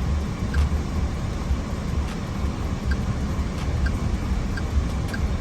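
Short, faint beeps from a car's navigation touchscreen as zip code digits are keyed in, one tone per press at irregular intervals, over a loud, uneven low rumble.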